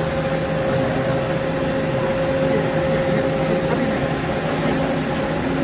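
Mushroom substrate production machinery running steadily: an even mechanical hum with a constant mid-pitched whine.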